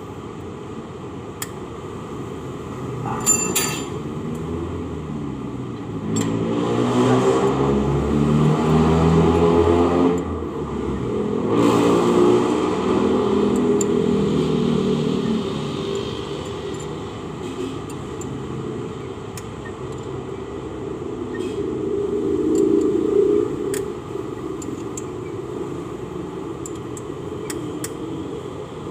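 Motor vehicles passing by with engines running, swelling and fading twice in the first half and once more later, over a steady background hum. Occasional sharp metallic clicks and clinks, typical of hand tools on engine parts, sound between the swells.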